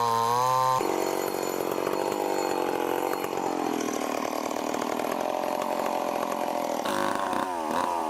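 Stihl MS 881 big two-stroke chainsaw running at high revs and cutting through a large log. A clean, steady engine note gives way abruptly, about a second in, to a rougher sound whose pitch sags as the chain works under load. The sound changes again near the end.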